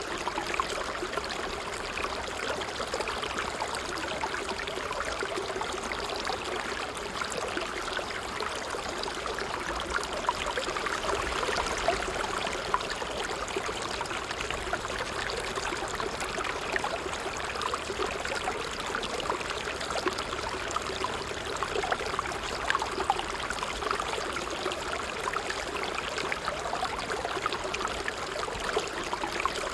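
Water trickling steadily over stones, a continuous bubbling with many small splashes and drips.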